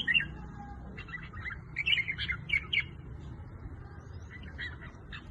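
Red-whiskered bulbul singing: short phrases of quick, clear warbling notes, three bursts with pauses between them.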